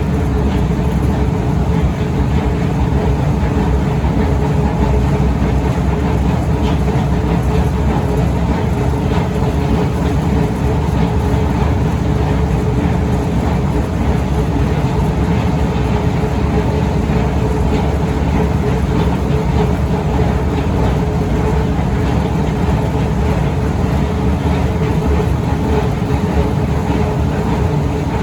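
Long Otis escalator running: a steady mechanical rumble and hum from the steps and drive, with a faint steady tone underneath.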